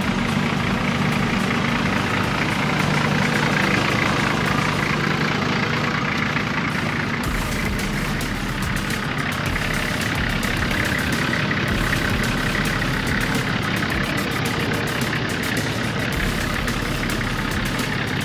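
Nissan Patrol GU Y61 four-wheel drive's engine running steadily at low revs on an off-road track.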